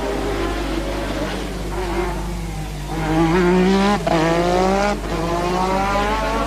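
Formula One car engine accelerating hard through the gears. Its pitch climbs, drops sharply with an upshift about four seconds in, climbs again, and drops with another upshift near five seconds before rising once more.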